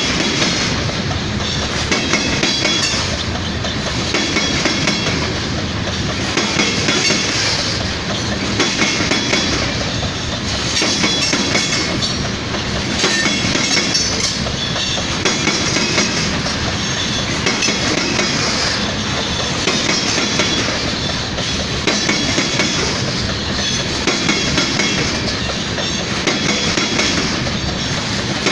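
Freight train tank cars rolling past close by: a steady rumble of wheels on rail with clickety-clack over the rail joints, swelling and fading every couple of seconds.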